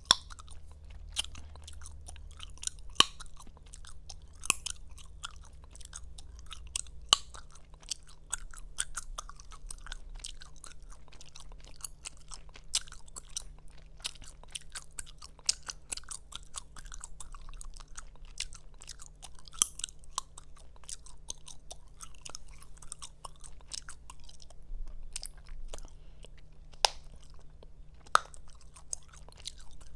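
Close-miked gum chewing: continuous wet smacking and clicking of the mouth and gum, with frequent sharp snaps as the gum is popped. The loudest snaps come about every few seconds.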